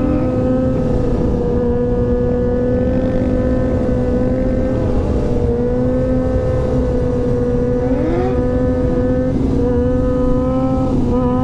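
Motorcycle engine running at a steady cruising speed, one constant engine note, over a low rush of wind and road noise; a short rising note cuts in briefly about eight seconds in.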